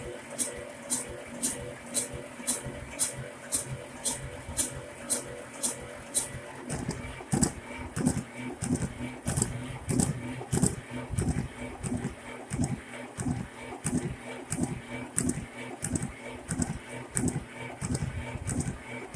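Shenniu 4/25 compact tractor's diesel engine being cranked by the starter on a cold start, beginning about a third of the way in: slow, regular compression pulses about twice a second over the starter's hum, without catching. A fast high ticking, about two to three ticks a second, runs alongside.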